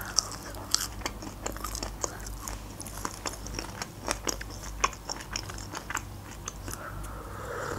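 Close-miked chewing of a bite of crisp fried food dipped in sauce: many small irregular crunches and wet mouth clicks.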